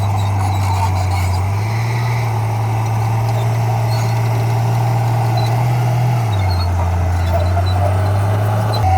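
Diesel engine of heavy earthmoving equipment running steadily with a low drone. The drone rises slightly in pitch about two seconds in and falls back about six seconds in.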